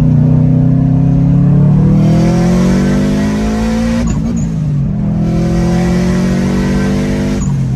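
Turbocharged EJ257 flat-four pulling hard under acceleration, revs climbing steadily, dropping at a gear change about four seconds in, then climbing again until they fall away near the end.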